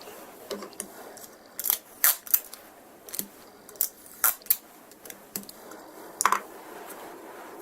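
A series of sharp, irregular clicks and taps, about a dozen in a few seconds, from plastic model-kit parts and hobby tools being handled on a workbench.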